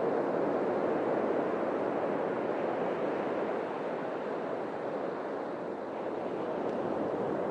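Atlantic Ocean surf washing onto a beach: a steady rushing wash of breaking waves that eases a little about halfway through and builds again near the end.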